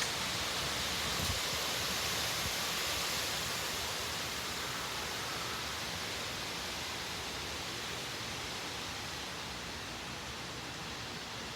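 Steady rushing noise of a severe thunderstorm's wind and rain, easing slightly toward the end.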